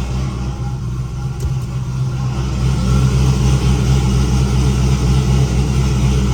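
Turbocharged LS V8 in a Camaro idling steadily, a little louder from about halfway through.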